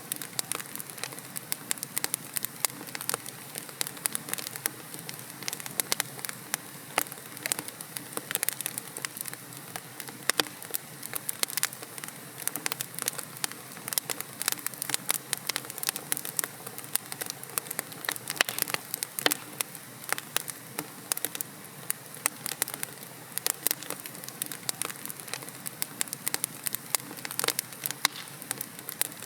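Wood logs burning in a fireplace, crackling steadily with many sharp pops and snaps over a soft hiss of the flames.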